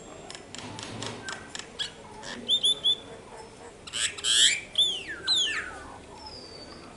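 Myna calling: a quick run of dry clicks, then three short whistled notes, a loud harsh squawk about four seconds in, and two falling whistles.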